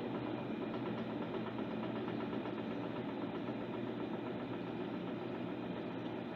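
Electrolux LTC10 top-loading washing machine running mid-cycle: a steady motor hum with vibration, unchanging throughout.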